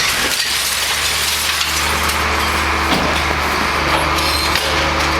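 Garbage truck's diesel engine running steadily with an even hum, with a broad mechanical noise over it.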